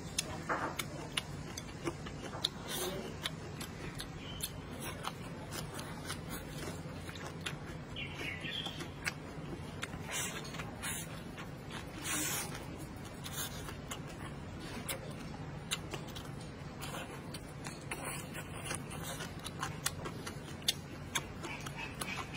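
A person eating: chewing and crunching food in many short sharp clicks, with a few louder bites, over a low steady hum.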